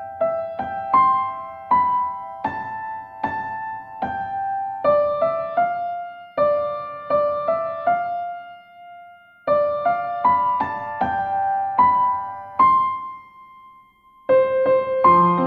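Background music: a slow, gentle piano melody in single struck notes, pausing briefly twice, with fuller chords and a bass line coming in near the end.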